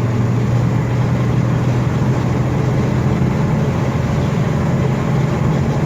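1982 Ford F250's 300 cubic inch (4.9 L) inline-six engine under load, accelerating the truck from 60 to 70 mph, a steady low drone over road noise.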